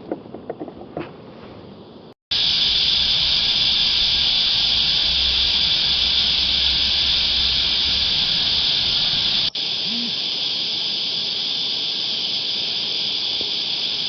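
Cicadas droning in a loud, steady chorus. It starts suddenly about two seconds in, after a quieter stretch with a few small clicks, and drops a little in level about nine and a half seconds in.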